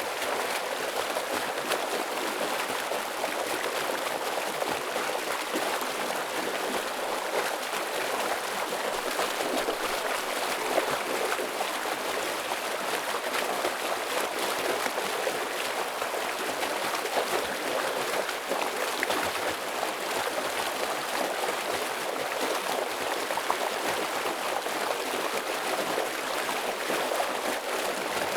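Stream water rushing and splashing over rocks in a dense, steady flow.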